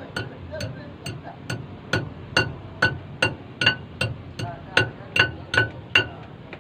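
Hammer blows on a big truck wheel's steel rim, about two a second and each one ringing, as the stuck tyre is beaten to break it loose from the rim.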